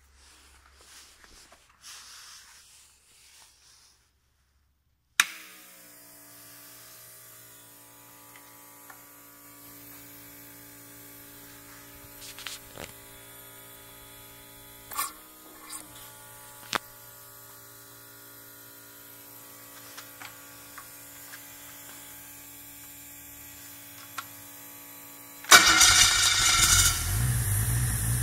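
A steady hum switches on with a click about five seconds in, with a few sharp clicks as the throttle body linkage is worked. Near the end the Holden 202 inline six-cylinder engine, fed by a Rotec throttle body injection unit, starts and runs loudly.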